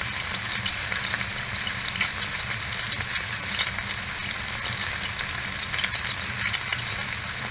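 A large steak frying in olive oil in a pan on a stove: a steady sizzle full of small crackles and spits.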